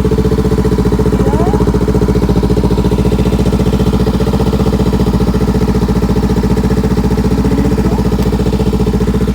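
2020 Honda CBR500R's parallel-twin engine idling steadily in neutral through an aftermarket exhaust, with an even, unchanging pulse.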